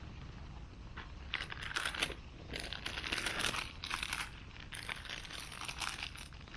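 Crinkling and rustling handling noises in irregular bursts, starting about a second in.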